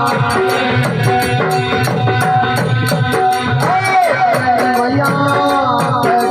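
Instrumental passage of a live folk devotional bhajan: a wavering melody over a steady rattle beat of about four strokes a second, with drums.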